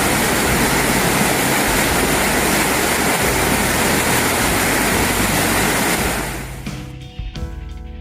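Loud rushing water over background music, fading out near the end.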